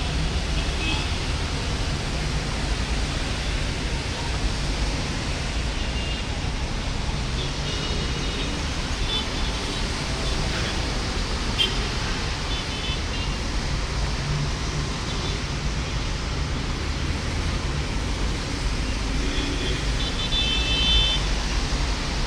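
Steady noise of heavy rain with wind buffeting, a constant hiss over a low rumble, broken now and then by short high-pitched chirps.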